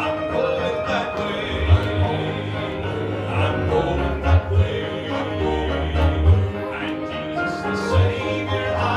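Southern gospel band music with a steady, pulsing bass line and sustained melody notes, and no clear lead vocal.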